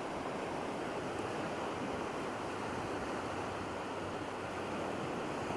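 Steady wash of surf on a beach: an even, unbroken hiss of waves.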